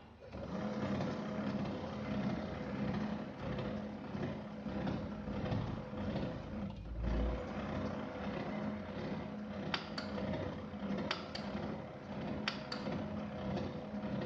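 HP LaserJet M1005 laser printer running its drive motor, with three sharp clicks about a second and a half apart from the paper pickup mechanism while no sheet is picked up. The three clicks are the known sign of the pickup fault, which is put down to a worn clutch drive gear.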